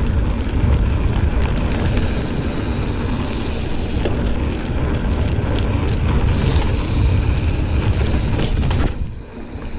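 Giant Fathom 29 mountain bike ridden over a dirt trail: a steady low rumble of wind on the microphone, with the bike rattling and clicking over bumps. The sound dips briefly near the end.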